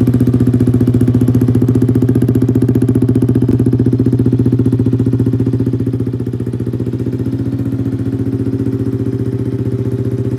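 Yamaha R15 V3's single-cylinder engine idling through an aftermarket SC Project exhaust: a steady, pulsing note that dips slightly in level about six seconds in.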